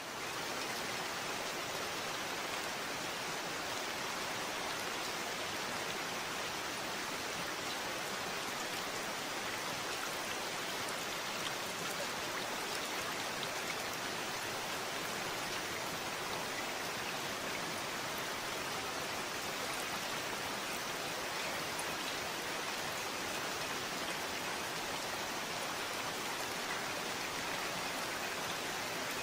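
Steady rain falling, an even hiss of drops with faint scattered patters of individual drops.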